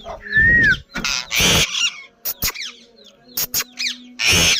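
Ring-necked parakeet chicks giving harsh, raspy begging calls in three short bursts, with a short falling whistle near the start and a few thin chirps and clicks between.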